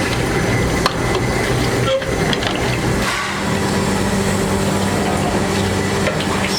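Workshop machinery running with a steady hum and a noisy din, with a couple of sharp knocks about one and two seconds in.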